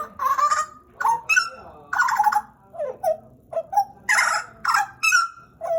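Pied butcherbird (Cracticus nigrogularis) calling in a quick series of about a dozen short notes. Some are harsh and rasping; others are clear whistled notes that slide down or up in pitch.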